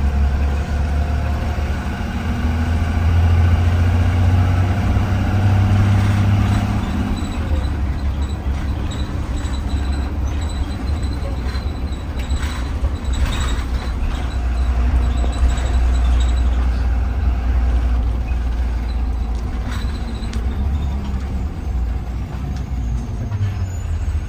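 Heard from inside a 2020 Blue Bird Vision school bus: the bus runs with a steady low engine rumble that swells twice as it pulls. A few short clicks come near the middle.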